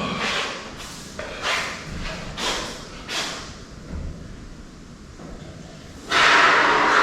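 A few short breathy puffs, then about six seconds in a loud steady hiss starts: a can of expanding spray foam being dispensed into the gaps along a shed's bottom plate.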